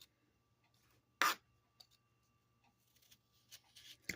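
Knife work on an apple: one short, crisp cut about a second in, with faint scraping and small clicks around it.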